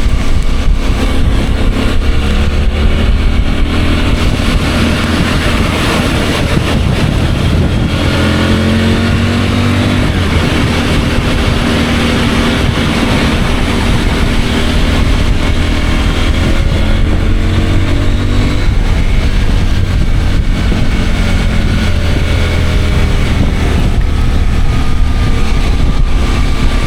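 CFMOTO 800MT motorcycle's parallel-twin engine running while riding, with heavy wind rumble. The engine pitch climbs about eight seconds in and again near nineteen seconds, rising and falling with the throttle.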